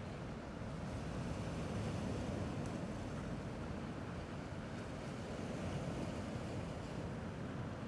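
Steady wash of gentle sea waves, with low wind rumble on the microphone.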